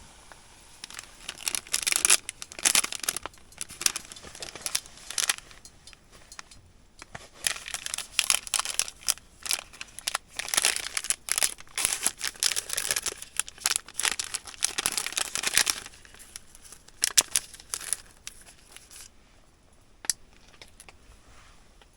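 Plastic packaging being crinkled and torn open by hand, in irregular bursts of rustling that die away about nineteen seconds in.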